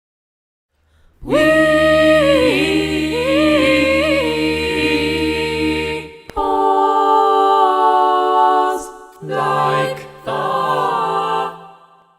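Choral ensemble singing a cappella, sustained chords in several voices. It comes in about a second in and sings in four phrases with short breaks between them.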